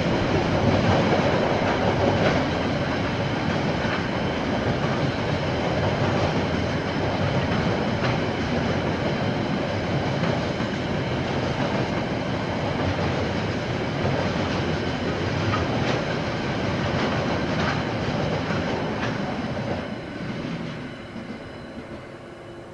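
KiwiRail train wagons rolling past on the track, a steady rumble with occasional clicks of the wheels over rail joints and a faint high wheel whine. The sound fades away near the end as the train moves off.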